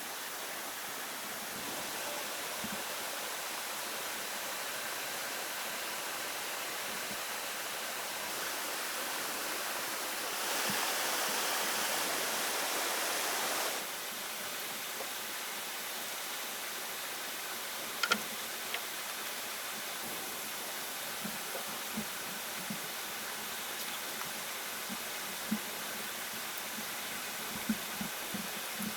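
Steady rushing of running water, swelling louder for about three seconds near the middle, with scattered light knocks and taps in the second half.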